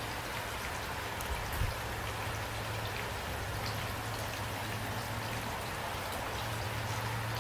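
Steady rain falling, with scattered individual drops ticking through the even hiss and a low steady rumble underneath.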